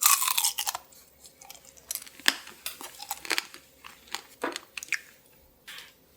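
Close-up chewing of tanghulu, a candied cherry tomato with a hard sugar shell: the glassy candy coating cracks and crunches between the teeth in irregular crisp bites. The crunching is loudest at the start and again a little past two seconds, then thins out toward the end.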